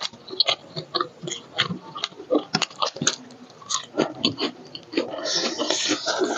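Close-miked chewing and biting of roast chicken: irregular wet smacks and clicks of mouths eating, with a longer hissy stretch about five seconds in.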